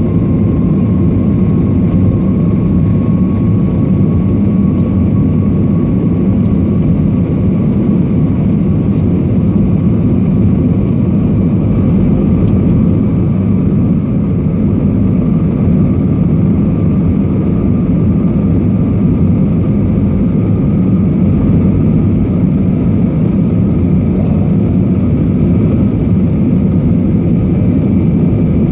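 Airliner cabin noise during the climb after take-off: a loud, steady rumble of the engines and airflow, with a faint steady whine over it.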